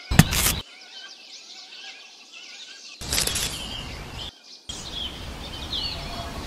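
Small birds chirping faintly and repeatedly, with a sharp knock just after the start and a stretch of scraping noise about three seconds in.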